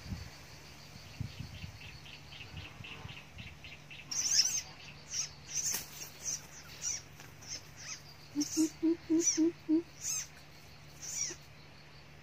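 Greater coucal's deep hooting call: a run of about six low, evenly spaced hoots about eight and a half seconds in. High-pitched bird chirps come repeatedly around it, the loudest about four seconds in.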